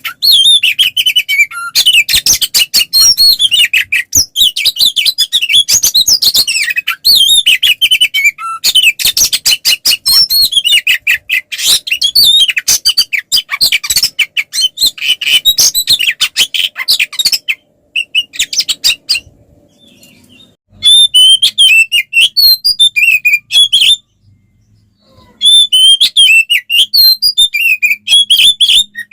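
Oriental magpie-robin (kacer) singing hard in fast, loud, unbroken runs of high, varied notes: the aggressive fighting song. The song stops twice past the middle, each time for a second or two, then starts again.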